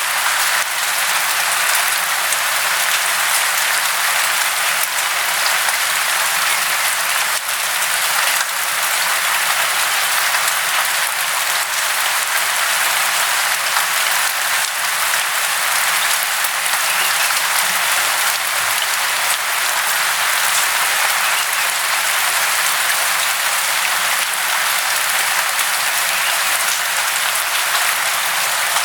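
Steady hiss of falling water, even and unbroken, with little low rumble.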